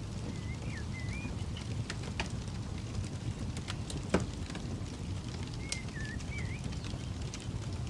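Campfire crackling with scattered small pops and one louder snap about four seconds in, over a low steady rumble. A bird gives short wavering whistled phrases twice, near the start and again after about six seconds.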